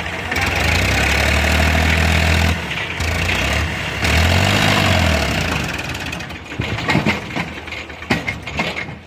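A heavy vehicle's engine revving twice, the first rev held for about two seconds and the second rising and falling in pitch around four seconds in. Then a series of sharp knocks and clanks near the end.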